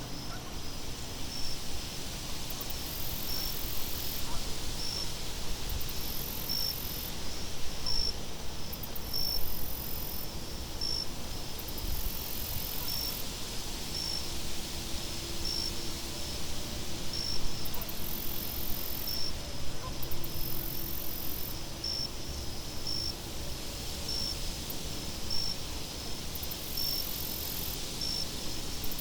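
Crickets chirping, a short high chirp about every second and a half, with stretches of very high insect trilling that start and stop, over a steady hiss of wind.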